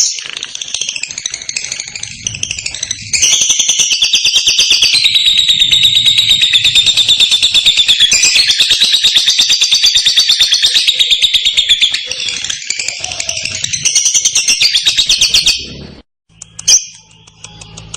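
Lovebird ngekek: a long, loud, very fast chattering trill in high pitch, held for about twelve seconds after a stretch of softer, uneven chatter. It stops suddenly near the end, followed by a single sharp chirp and a fainter trill starting again.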